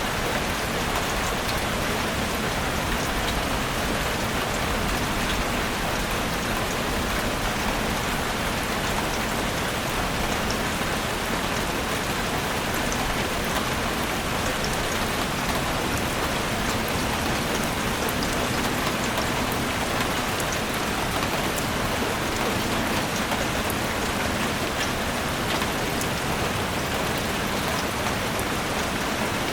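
Steady rain falling on a forest, a dense even hiss full of fine drop patters, with no change in strength.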